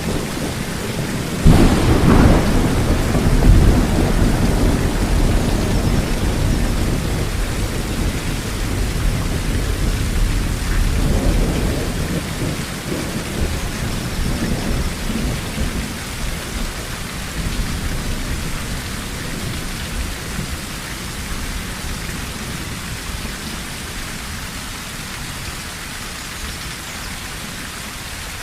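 Heavy rain on a tin roof with a sudden thunderclap about a second and a half in, rumbling on for several seconds. A second, weaker rumble comes a little before halfway, then the thunder fades and steady rain remains.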